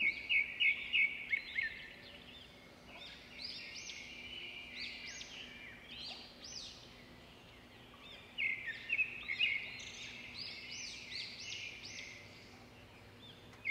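Small birds chirping in quick, overlapping bursts, several calls at once, with short lulls between the bursts. A faint steady low hum runs underneath.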